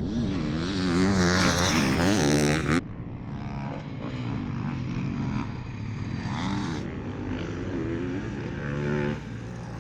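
Motocross bike engines revving up and down as they are ridden on the track. A close, loud one for about the first three seconds cuts off abruptly, then quieter bikes rev and shift.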